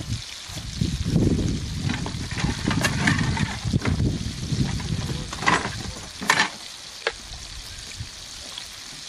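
Food sizzling as it fries in a pan, a steady hiss, with low rumbling noise through the first half and a few sharp clicks about five and a half, six and a half and seven seconds in.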